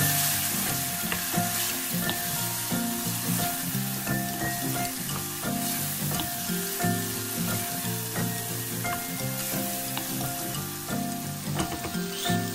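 Onion, tomatoes and spices sizzling in olive oil in an enamelled pot, stirred with a wooden spatula, with background music.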